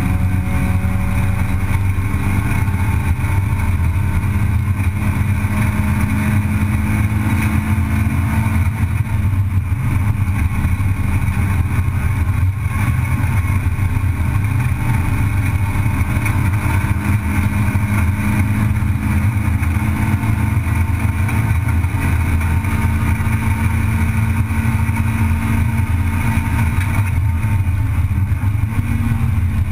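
Race car's engine running hard at high revs, heard from inside the cockpit, its pitch drifting slowly up and down with a brief dip about twelve seconds in.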